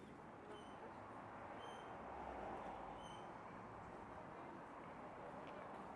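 Faint outdoor background hum with three short, high chirps about a second apart in the first half.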